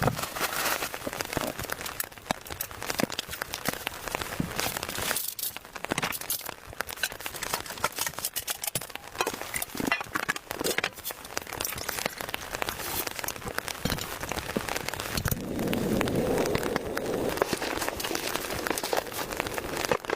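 Rain falling, with dense, irregular drops striking a nearby surface throughout. A fuller, lower rustle joins from about fifteen seconds in.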